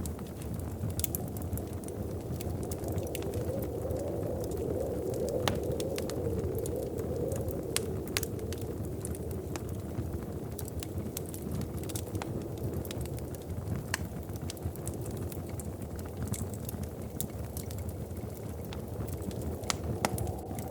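Wood fire crackling in a fireplace: scattered sharp pops and snaps over a steady low rumble that swells for a few seconds early in the stretch.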